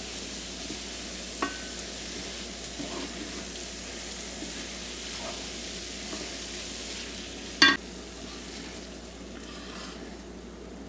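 Tofu scramble sizzling in a frying pan as it is stirred, with a few light utensil clicks and one sharp, loud knock against the pan a little past halfway.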